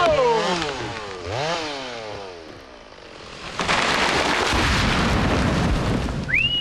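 Two-stroke chainsaw revs dying away twice, then about three and a half seconds in a sudden long crash as the felled tree comes down through the branches and hits the ground. A short rising-and-falling whistle-like tone comes near the end.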